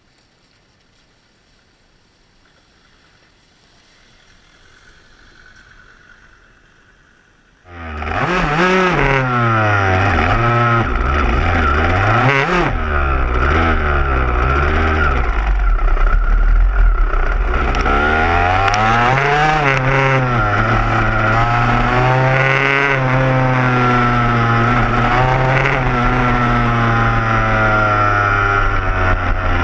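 Dirt bike engine comes in suddenly about eight seconds in, after faint background sound. It runs close by and is revved up and down again and again.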